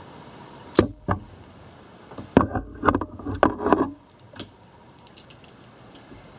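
Metal clicks and rattles of hand tools and a spring hose clamp being worked onto a coolant hose: two sharp clicks, then a quick cluster of rattling clicks and a last single click.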